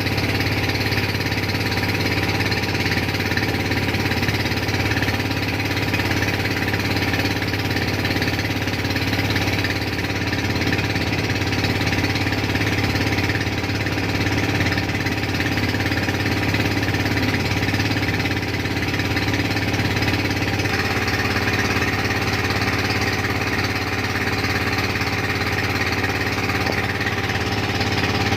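A boat's engine running steadily with a knocking, pulsing note. The engine note shifts slightly about twenty seconds in.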